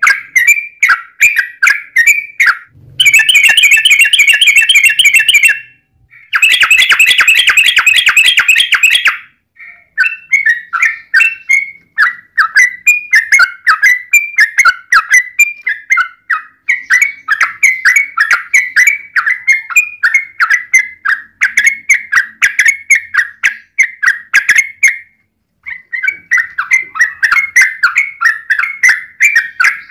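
Yellow-vented bulbul (trucukan) singing: a long run of short, bubbly chirps at much the same pitch. About three seconds in and again about six seconds in, the chirps give way to a rapid dense trill, the long 'ropel', each lasting two to three seconds.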